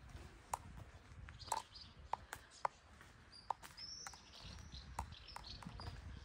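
Small birds chirping: a scatter of short, sharp chips, joined from about three and a half seconds in by brief high calls that bend downward. A low rumble runs underneath.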